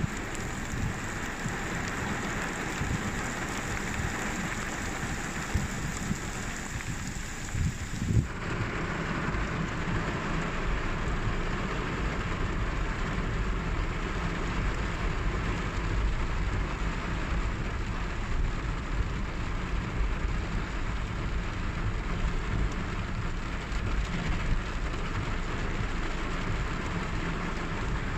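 Steady rain with a low rumble underneath. The sound changes abruptly about eight seconds in, as at a cut.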